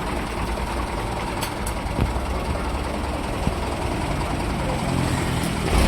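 Heavy diesel vehicle engine running steadily, with a few faint clicks.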